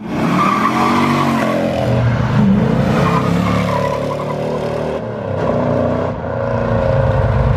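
A car engine revving, its pitch rising and falling several times, with a brief dip about five seconds in before it climbs again.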